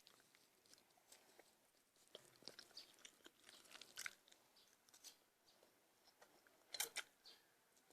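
Faint, close chewing with soft wet mouth clicks, and a sharper cluster of clicks about seven seconds in.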